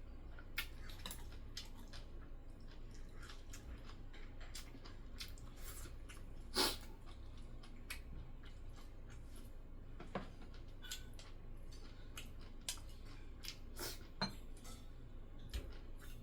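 Eating sounds at a table: chopsticks and spoon clicking against dishes, with chewing, in scattered irregular clicks and one louder clack about six and a half seconds in.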